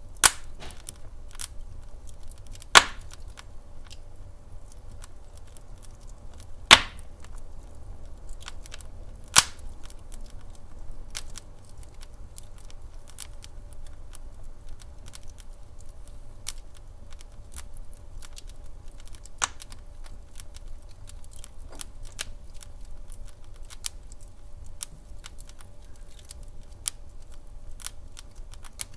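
Wood fire in a fireplace crackling steadily with small snaps, and four louder pops in the first ten seconds over a low rumble.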